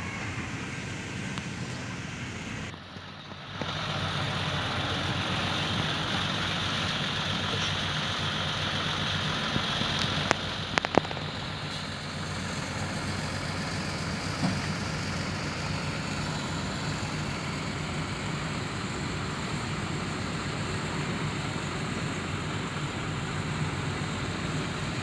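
Heavy diesel machinery, a dump truck or wheel loader, running steadily. There is a brief drop in level about three seconds in, and a few sharp knocks around eleven seconds.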